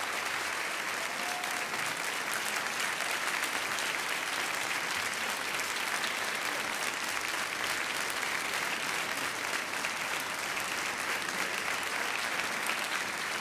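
Audience applauding steadily, a dense even clapping, easing off near the end.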